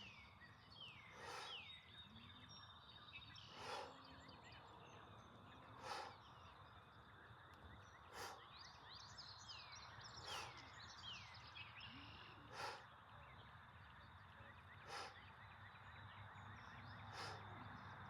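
Faint, sharp exhales of breath, one about every two seconds, each pushed out with the effort of a lunge-and-pull repetition. Birds chirp and trill in the background over a thin, steady high tone.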